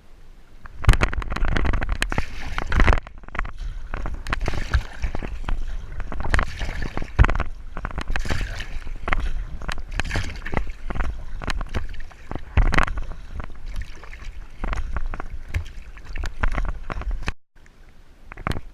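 Kayak paddling: paddle splashes and water sloshing against the kayak, with wind rumbling on the microphone. It cuts off abruptly near the end.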